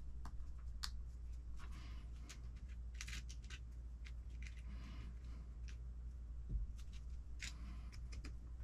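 Small parts of an RC car transmission being handled and fitted by hand: scattered light clicks and short rustles, over a low steady hum.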